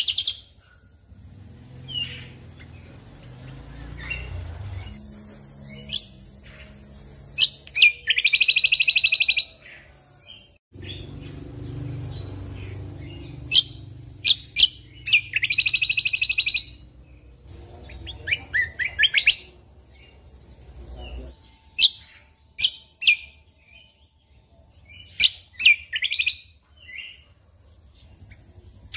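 Cucak kombo (kecial kombok) songbird singing: short, sharp high chirps broken by fast rattling trills, three of them the loudest, about 8, 15 and 19 seconds in.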